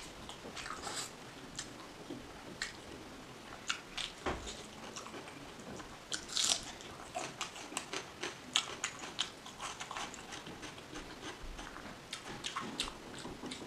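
Close-miked chewing of a big mouthful of egg: irregular small clicks and smacks of the mouth working the food, with a brief louder rustle about six and a half seconds in.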